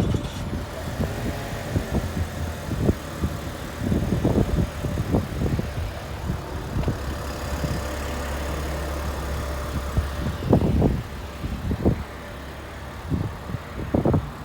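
2022 Chevy Trailblazer RS's 1.3-litre turbocharged three-cylinder engine, just started cold and idling quietly, with a steadier, stronger hum in the middle. Repeated gusts of wind hit the microphone over it.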